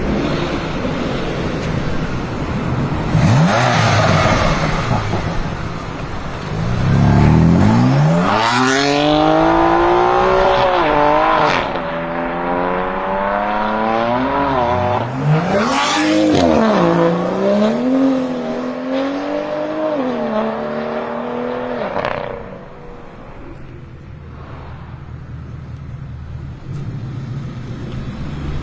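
BMW M6 Gran Coupe's twin-turbo V8 through an Akrapovic exhaust, accelerating hard. Its pitch climbs from about seven seconds in and rises and falls several times through gear changes. It drops away to a quieter engine sound a few seconds before the end.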